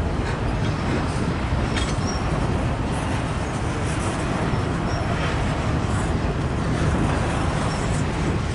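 Freight train's cars rolling past at close range: a steady, continuous noise of steel wheels on the rails, strongest in the low range.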